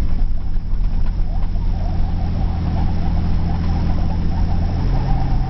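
Toyota LandCruiser's engine running steadily as the 4WD drives slowly over beach sand, with a slight shift in its low hum about five seconds in.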